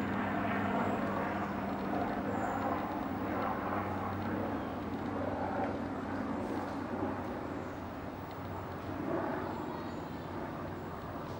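Steady rumble of distant city vehicles, with a few faint, short, high bird call notes now and then.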